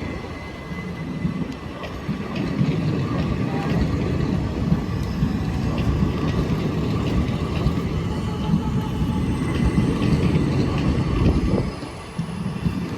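Express train passing at speed on Indian Railways track: a loud, steady rumble of wheels on rail with faint clacks. It drops away briefly near the end.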